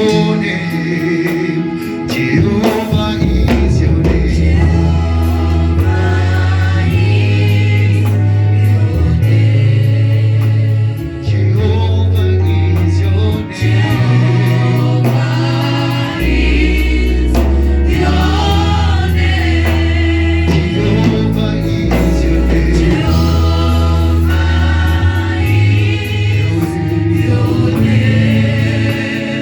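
Gospel music with a choir singing over a heavy, sustained bass line and percussion.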